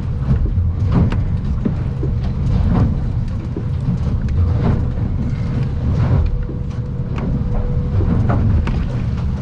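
Inside the cabin of an aluminium boat running through rough chop: a steady low engine and hull rumble with frequent knocks and slaps as the hull hits waves. A faint steady whine runs through much of it.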